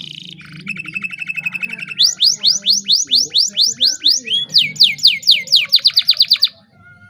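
Domestic canary singing in full song: a buzzy trill, then a long run of quick downward-sweeping whistled notes that speed up near the end and stop about six and a half seconds in.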